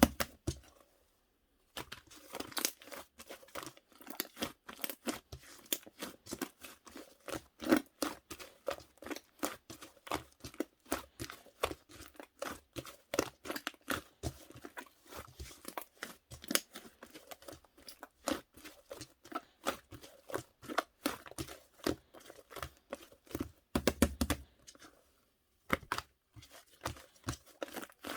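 Cloud slime being squished and stretched by hand, giving dense rapid crackles and pops. The sound pauses briefly about a second in and again near the end.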